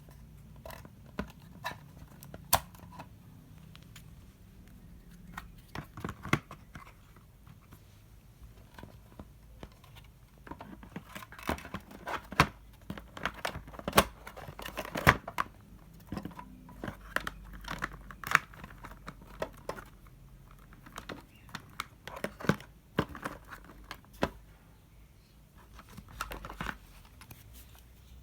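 Packaging being handled and opened by hand: irregular crinkling and tearing among scattered sharp clicks and knocks, busiest in the middle stretch.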